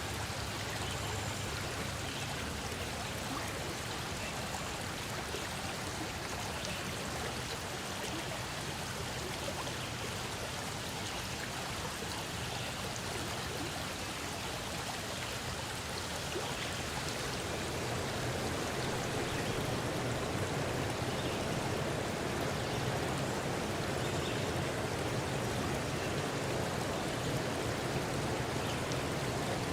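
A forest stream running and splashing over rocks: a steady rush of water, slightly louder from about halfway through.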